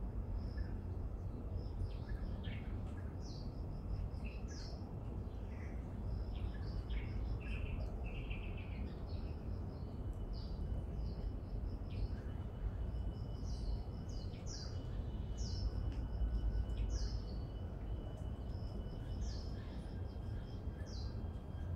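Wild birds chirping and calling, many short high notes repeated throughout, over a steady low rumble.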